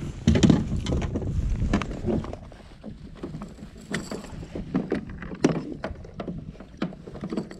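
A bass being landed beside a kayak: a quick run of knocks, clicks and rattles from the fish and gear against the hull, with low wind rumble on the microphone during the first two seconds or so.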